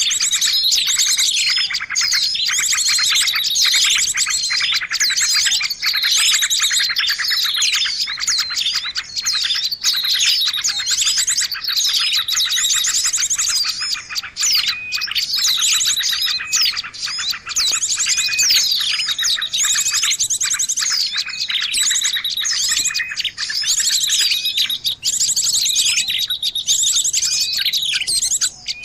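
A bird-lure recording: a dense, agitated chorus of small songbirds chirping and trilling rapidly and without a break, made to draw small birds in.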